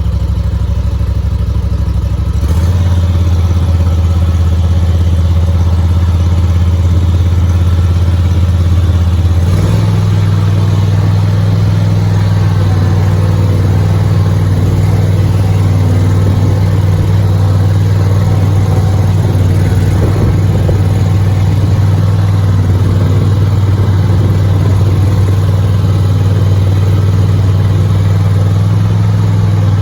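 Bad Boy Rogue zero-turn mower's engine running as the mower is driven, picking up speed about two seconds in and again near ten seconds, then holding steady.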